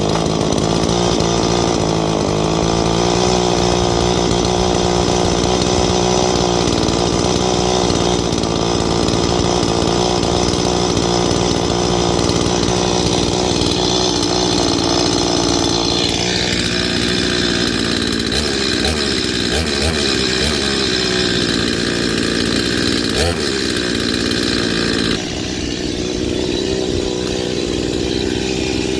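Two-stroke petrol chainsaw running at high revs while cutting thick branches into firewood. Its pitch drops about halfway through and then wavers up and down.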